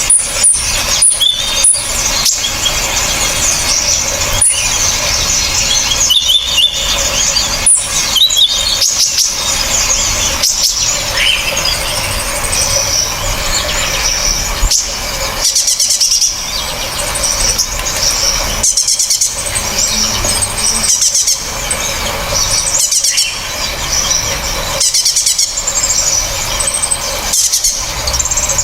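Several small songbirds calling at once, a dense run of sharp, harsh, high-pitched chirps, squeaks and trills.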